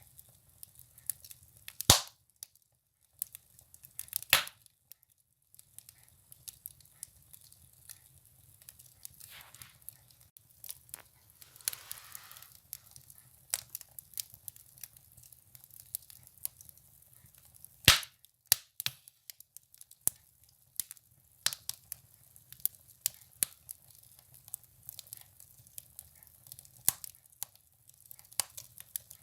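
Firewood burning in a wood stove, crackling with scattered small snaps and a few much louder pops, the loudest about 2, 4 and 18 seconds in. A short hiss rises briefly near the middle.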